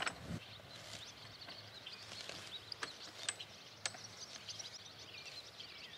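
Faint birdsong chirping over a quiet background hiss, with a sharp knock at the very start and three light clicks around the middle.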